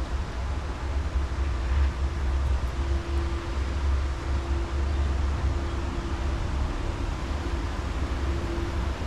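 Honda NC750X motorcycle running steadily on the move, with deep wind rumble on the microphone and a steady hum that fades in and out.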